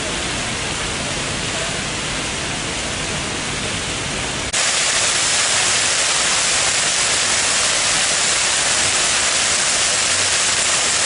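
Steady rushing noise with no pitch, jumping abruptly to a louder, brighter rush about four and a half seconds in.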